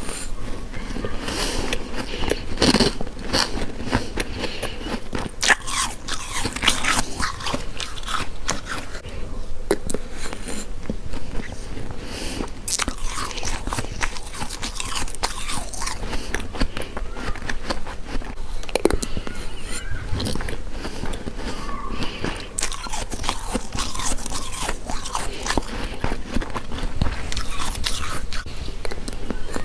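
Freezer frost being bitten and chewed up close, with repeated crunching bites throughout.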